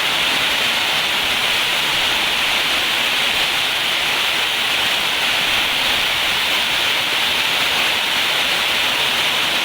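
Heavy rain falling: a loud, steady hiss that does not change.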